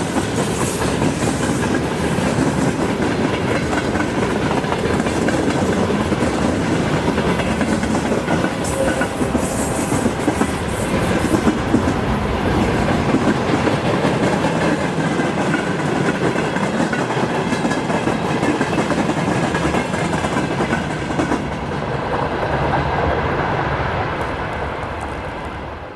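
Freight train wagons rolling past, steady wheel and rail noise with clickety-clack over the rail joints, fading out near the end.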